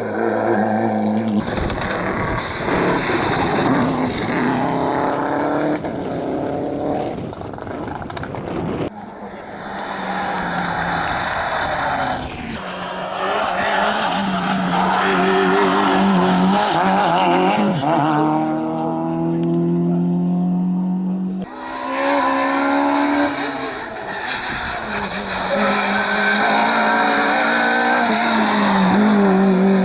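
Rally cars on a hillclimb stage, engines revving hard and rising in pitch through the gears, with drops at each upshift and some tire squeal. It is several short passes cut together, so the sound changes abruptly a few times.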